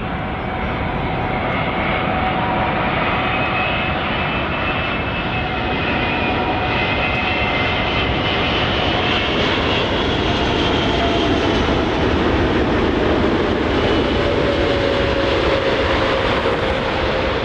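Airplane engine drone: a steady rushing noise with a few tones that slowly fall in pitch, like an aircraft passing overhead.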